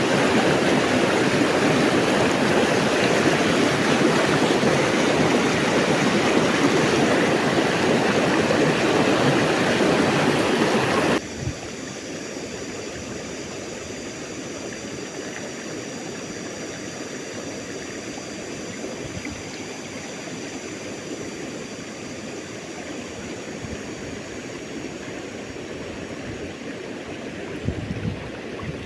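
Rushing river water, loud and steady, dropping suddenly about eleven seconds in to a quieter, even flow.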